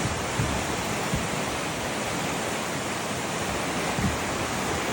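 Flood-swollen stream raging: a steady, loud rush of water, with a few low knocks underneath that sound like boulders rolling along the streambed.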